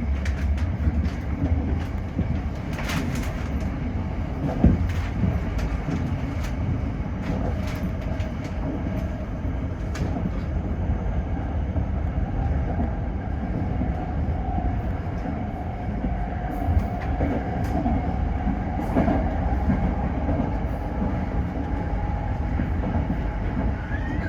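Toyo Rapid Railway 2000 series electric train running along the line, a steady low rumble with a few sharp clicks from the wheels over rail joints. A faint steady tone rises out of it from about seven seconds in.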